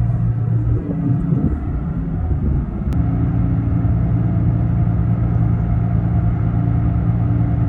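Heavy diesel engine of a log loader running, a steady low drone that wavers in pitch for a second or two. About three seconds in it cuts abruptly to another steady engine drone.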